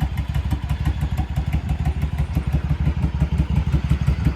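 Yamaha V-Star 1100's V-twin idling through Cobra Slashcut slip-on mufflers, a steady pulsing exhaust beat that sounds like a Harley. The engine is still cold.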